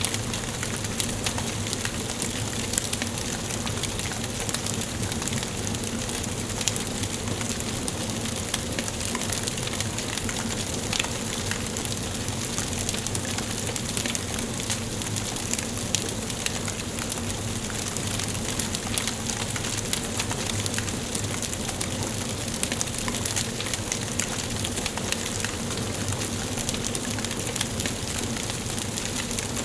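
Wood fire crackling in a fireplace: a steady hiss of burning with many small, irregular pops and snaps from the logs.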